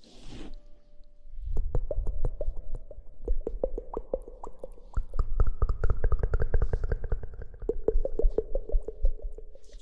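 Rapid, soft tapping close to the microphone, many taps a second starting about a second and a half in, with a hollow ringing tone under them.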